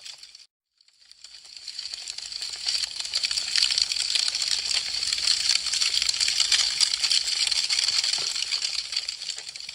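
Wood fire crackling: a dense stream of fine snaps and pops. It cuts out for a moment about half a second in, then builds back up over the next couple of seconds.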